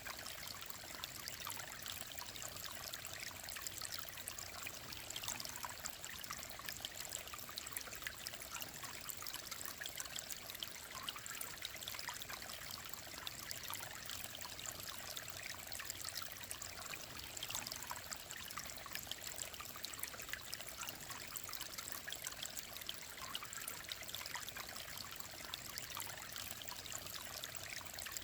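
Clear mountain stream flowing steadily, an even rush of water full of small trickles and splashes.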